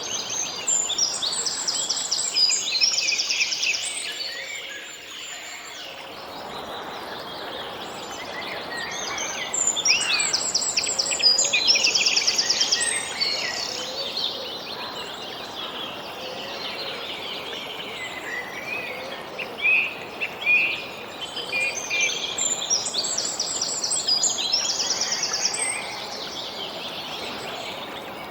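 Songbirds singing in three bouts of quick, high chirps and trills, over a steady outdoor background hiss.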